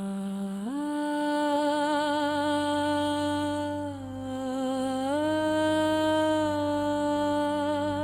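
AI-generated ambient music: a single wordless voice humming long held notes with vibrato, stepping up in pitch about a second in, dipping around four seconds and rising again around five, over a low steady drone.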